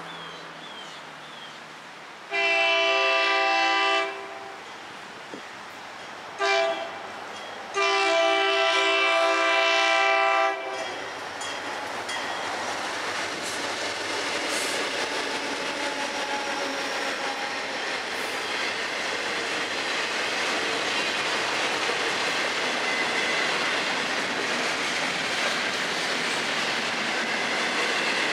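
Horn of a Florida East Coast Railway freight locomotive sounding three blasts of several notes at once: a long one, a short one and another long one. Then the locomotives and container cars pass close by, with a steady rumble and clatter of wheels on the rails that slowly grows louder.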